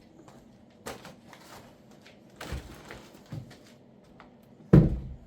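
Scattered knocks and clunks from handling an interior wooden door, with a louder thump near the end.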